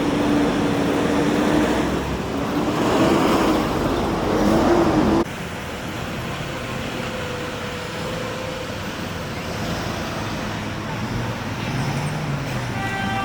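City street traffic: a motor vehicle running close by with a wavering engine tone over the first five seconds, then the sound cuts abruptly to a quieter, steady traffic rumble. A short pitched tone like a horn starts just at the end.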